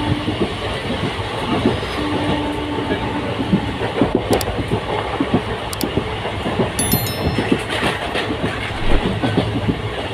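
Passenger train running along the track, heard from inside the coach by its barred window: a steady rumble with a rapid, uneven clatter of wheels over rail joints.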